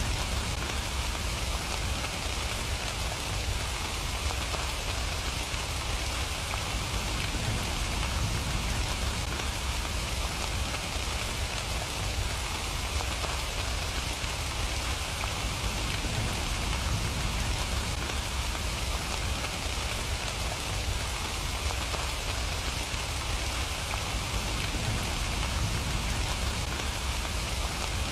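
Steady rain falling, an even hiss of many drops with a low rumble beneath it and no pauses.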